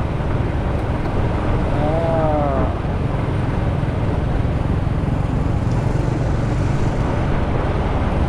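Steady rumble of a motorcycle riding through city traffic, with engine, road and wind noise picked up by a rider-mounted action camera. About two seconds in there is a brief wavering tone.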